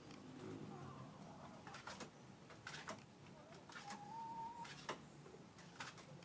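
Faint bird calls: several sharp, short notes scattered through, and one short steady whistle about two-thirds of the way in.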